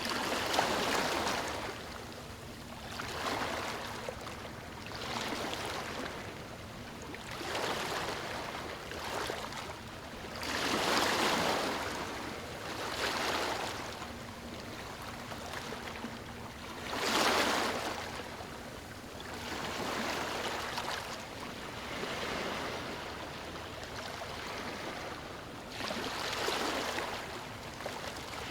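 Water washing and splashing in repeated surges every two to three seconds, the strongest a moment in, about eleven seconds in and about seventeen seconds in.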